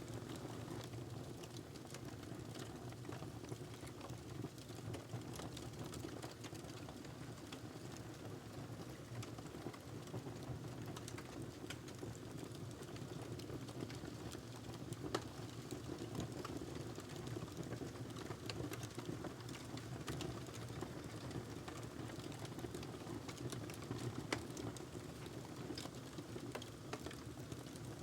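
Wood fire burning in a fireplace: a steady low rush with frequent small crackles, and a couple of sharper pops about halfway through and near the end.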